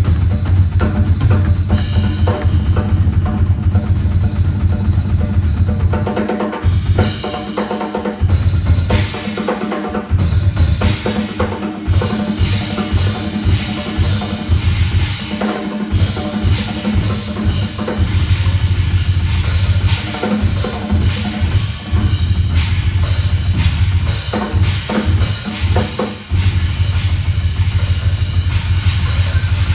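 Rock drum kit played live in busy, fast patterns, with heavy bass drum and rolling snare and tom fills.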